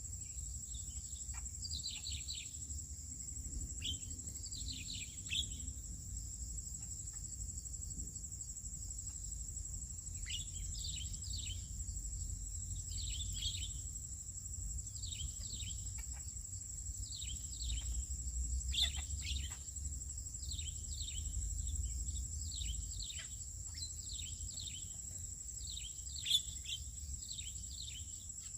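Birds chirping in quick clusters of short, falling calls over a steady high-pitched insect drone, with a low rumble underneath.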